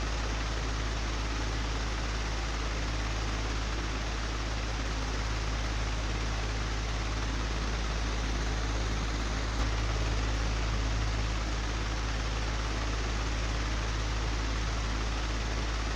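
Old, broken electric fan running steadily: a constant rush of air over a low motor hum, with a single small knock about ten seconds in.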